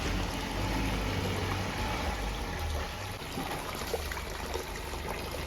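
Water running in a steady flow, with a low steady hum underneath.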